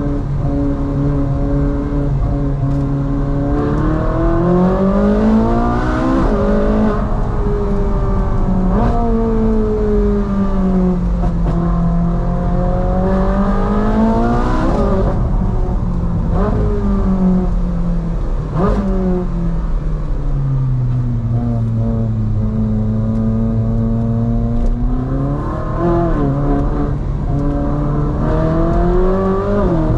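Ferrari 458 Spider's 4.5-litre V8 driven hard: the engine note climbs in pitch under acceleration several times, drops abruptly at each gear change, and falls away as the car eases off between pulls.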